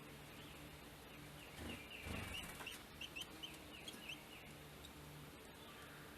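A wild bird gives a quick series of about eight short, sharp chirped notes, just after a brief louder noise, over a faint steady hum.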